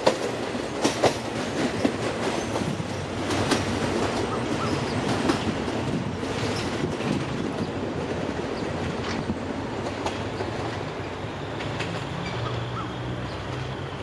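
Diesel-hauled passenger train running away along the track: its wheels clicking over the rail joints, the clicks growing sparser and fainter over a steady rolling rumble. A low steady drone comes in near the end.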